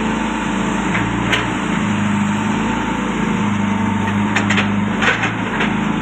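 Diesel engine of a CAT 422F2 backhoe loader running steadily, with a few short knocks or clanks about a second in and again near the end.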